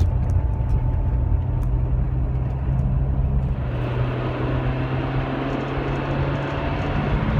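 2005 Rover 25 GSi's engine pulling steadily under acceleration, heard from inside the cabin. Road and wind noise rise from about halfway as speed builds.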